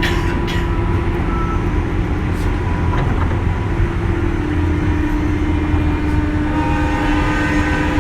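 JR West 201 series electric train running, heard from inside the car: a steady rumble of wheels on rail with a constant electric whine. There are a few sharp clicks in the first half-second and again about two and a half seconds in. The train is nearing its next station stop.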